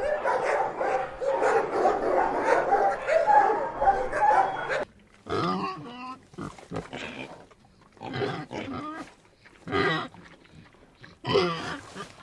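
Pigs grunting and squealing: a dense run of overlapping calls for about five seconds, then separate calls with short gaps between them.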